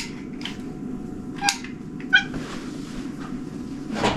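Domestic cat giving two short meows, about one and a half and two seconds in, with a few light clicks and knocks between.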